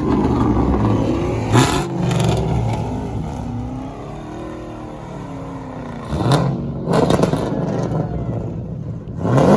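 Car engines revving hard, with three quick rev-ups about a second and a half, six and nine seconds in, and an engine note that rises and falls in between.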